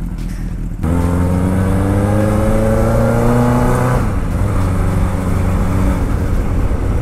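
Honda CB750K air-cooled inline-four motorcycle engine opening up about a second in and pulling under acceleration, its pitch rising steadily for about three seconds. The pitch drops about four seconds in at a gear change or throttle lift, and the engine then runs on more evenly.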